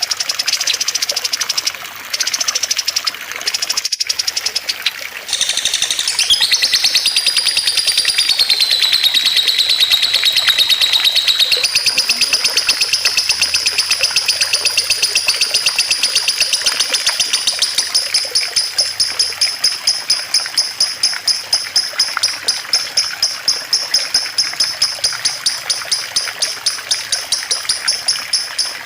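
A songbird's high, rapid trill held on for many seconds, turning into an even pulsing of about four beats a second in the second half, after a stretch of shorter high notes and a sharp click about 4 s in. Under it runs the steady babble of running water.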